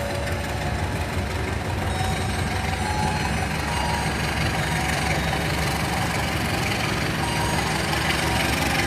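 Diesel locomotive engine running steadily during shunting, with a deep even rumble that grows slightly louder toward the end. A few short, faint high tones sound over it.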